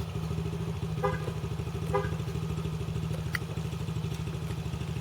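Dirt bike engine idling steadily close by, an even low pulsing with no revving.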